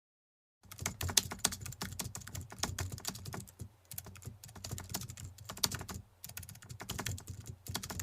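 Rapid, irregular clicking like typing on a computer keyboard, starting abruptly under a second in, with a few short pauses.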